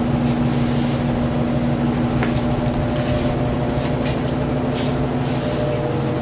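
A steady mechanical hum with a fixed low tone, and scattered light clicks and taps over it.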